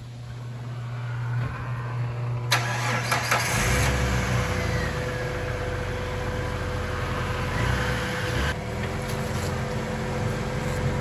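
A Jeep TJ's engine starting up about two and a half seconds in and then running at a steady idle.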